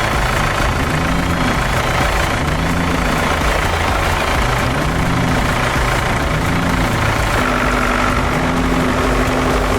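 Tractor engine running, its low pitch rising and falling in slow repeated swells.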